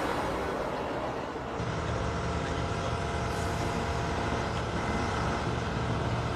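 A heavy vehicle's engine running steadily with a low hum. It comes up about a second and a half in, as a louder sound from before fades away.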